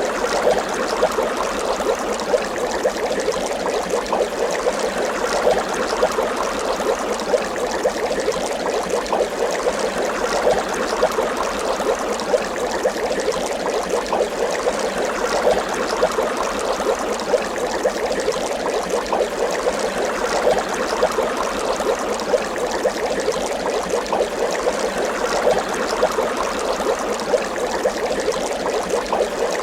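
Water bubbling continuously, a dense steady stream of small bubble pops and gurgles.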